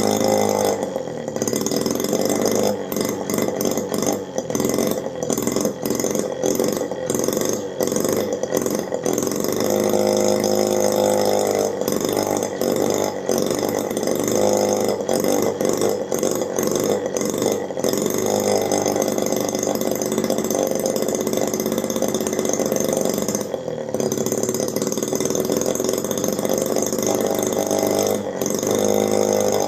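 Miniature two-stroke engine built from a refrigerator compressor, running with a buzzing note, its speed changing several times.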